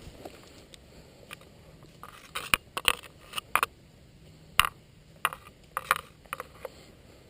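A series of about a dozen sharp clicks and knocks at uneven intervals, starting about two seconds in, some in quick pairs, over quiet outdoor background.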